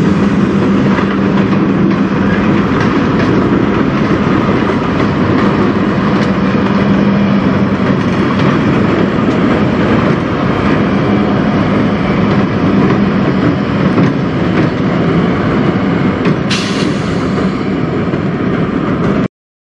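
Freight train of tank cars rolling past on the rails, then the CN diesel locomotives pushing at the rear go by with a steady low engine drone. There is a brief high hiss about three-quarters of the way through, and the sound cuts off suddenly just before the end.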